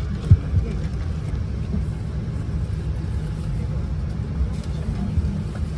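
Steady low rumble of an airliner cabin with the aircraft on the ground, with a short knock about a third of a second in.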